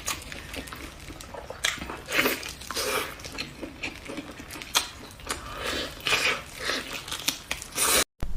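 A person chewing and biting food, irregular wet mouth noises with occasional crunches. It cuts off abruptly near the end.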